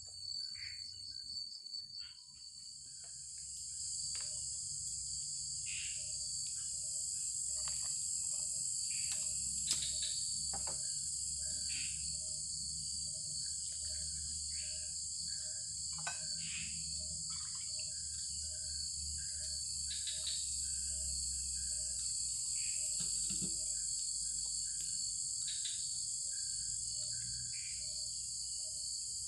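Night chorus of forest insects: a steady high-pitched trilling drone that swells in about two seconds in. Under it a short low note repeats roughly every 0.7 seconds, with scattered higher chirps and occasional clicks.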